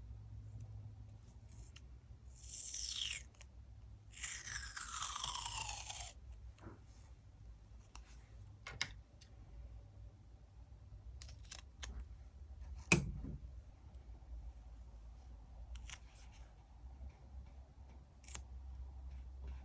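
Scissors cutting paper in two long strokes, each sweeping down in pitch, followed by scattered light clicks and taps of stationery being handled, with one sharper knock about 13 seconds in.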